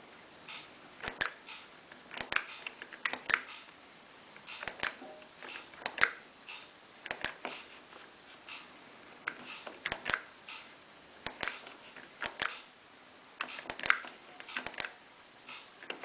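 Sharp, irregular clicks, roughly one a second, from the controls of a Miele PW 6055 Plus washing machine being pressed to step through its programs and settings.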